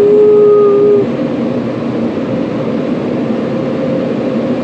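A dog howls one long, slightly falling note that stops about a second in. Under it runs the steady rush of automatic car wash equipment, heard from inside the car.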